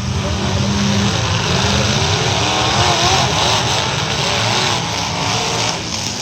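Several demolition-derby trucks' engines running loudly together in a dense, steady din, with pitches that waver up and down as the engines rev.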